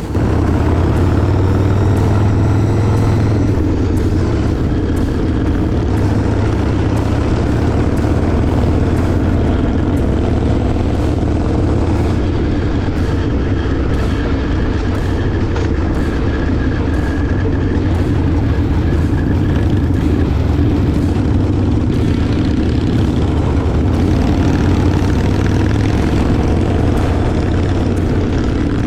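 Motorcycle engine running steadily under way, heard from on the bike with rushing wind noise over it.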